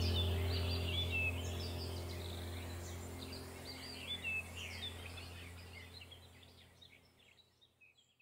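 Birds chirping over a low steady hum, all fading out gradually to silence near the end.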